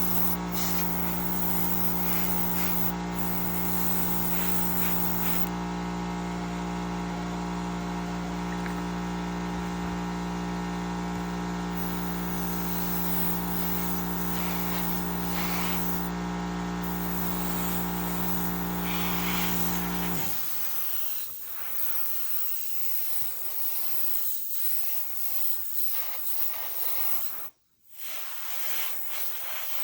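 Small airbrush compressor motor humming steadily, shutting off abruptly about two-thirds of the way through; uneven hissing of air and spray follows.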